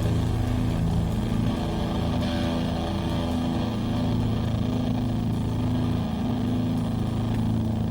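Live band music: a dense wall of held low guitar and bass notes, the chord shifting every second or so.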